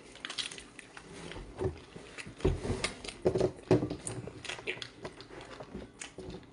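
A person biting into and chewing raw octopus: irregular short mouth noises, loudest between about one and a half and four seconds in.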